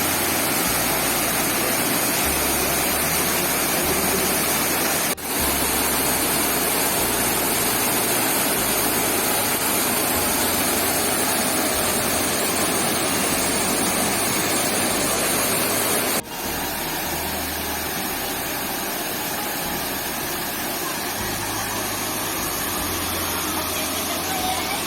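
Small waterfall rushing steadily, a loud even hiss of falling water close to the microphone, broken by two brief dips where the sound drops out and resumes.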